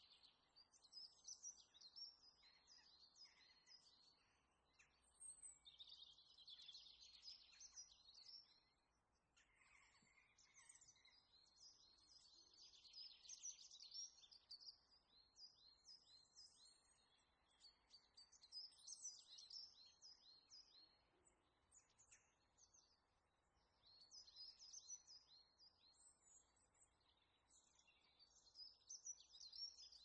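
Faint birdsong: songbirds singing in runs of short, high chirping notes that come and go, over a faint outdoor hiss.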